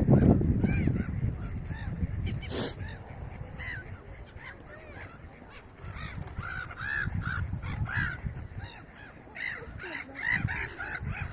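Several birds giving short, harsh, caw-like calls, one after another and overlapping, over a low rumble that is strongest at the start.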